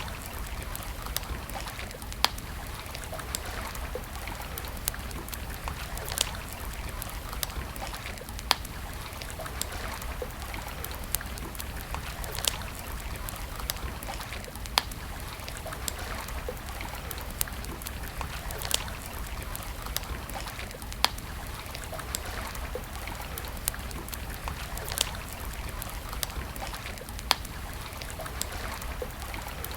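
Wood campfire crackling, with sharp, irregular pops about once or twice a second over a steady rushing background and a low rumble.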